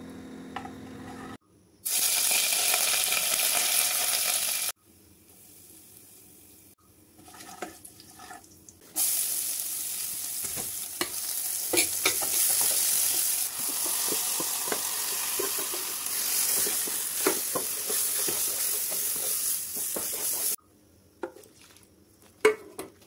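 Hot oil sizzling in a nonstick pan as chopped onion, curry leaves and seeds fry, with a wooden spatula stirring and tapping against the pan. The sizzle starts and stops abruptly across several short cuts. Near the end there is only quieter stirring of a thick dal batter.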